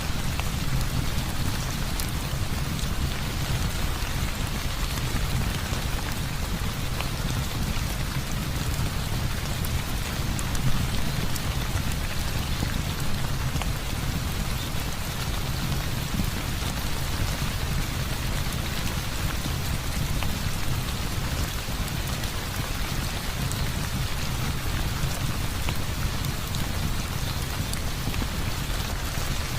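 Heavy rain falling steadily, with a low rumble underneath and scattered sharp ticks throughout.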